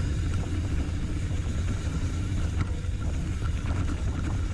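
Steady low rumble of wind buffeting the microphone together with tyres rolling over the trail as a mountain bike descends.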